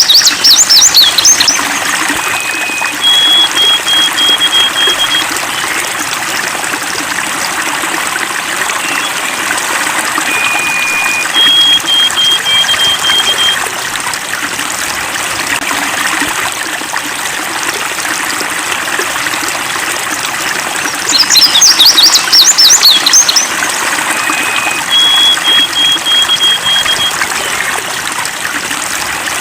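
Steady rush of a flowing stream with songbirds calling over it. A burst of fast, high chirps comes near the start and again about three-quarters of the way through. Three times, a short lower note is followed by a run of five or six even, high notes.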